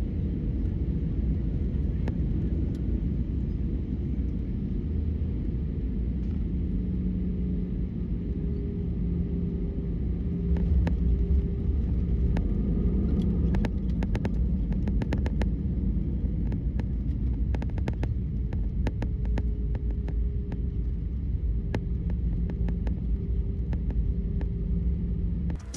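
Airbus A319 cabin noise during landing: a steady low rumble of the engines and airflow. Two low humming tones come in several seconds in, the level rises slightly about ten seconds in, and a run of light rattling clicks follows for several seconds.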